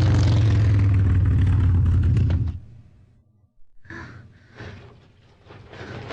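A steady low motor hum that cuts off abruptly about two and a half seconds in, followed by faint breathy sounds.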